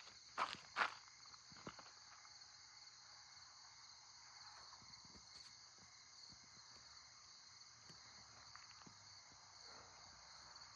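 Faint, steady chorus of night insects trilling high and continuously, with two footsteps in the first second.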